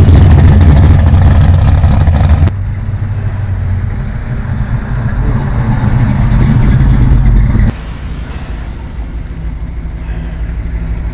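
Deep, loud rumble of classic car engines running. The sound cuts off abruptly twice, about two and a half seconds in and again near eight seconds, dropping quieter each time and then slowly building back up.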